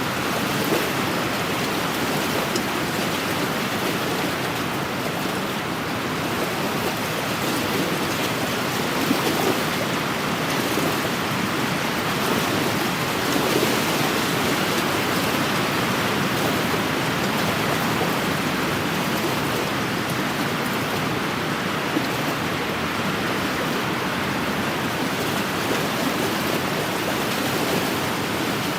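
Wind-driven waves on an inland lake washing steadily against the shore, an even rushing wash with no single breaks standing out.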